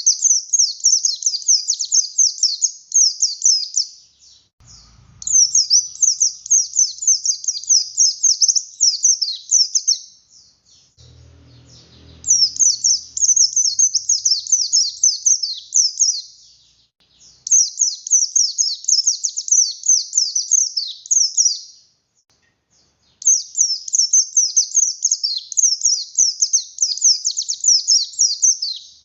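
A white-eye (pleci buxtoni) singing in full voice: rapid, high twittering song in five bouts of a few seconds each, separated by short pauses.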